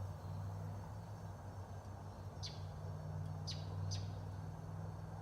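Faint, steady low hum from a Lennox Merit Series 3-ton heat pump's outdoor unit. Three short, high, falling bird chirps come about two and a half, three and a half and four seconds in.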